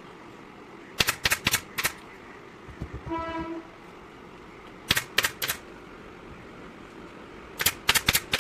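Upholstery staple gun firing in quick runs of sharp clicks, four shots, then three, then four. A short horn-like beep sounds about three seconds in.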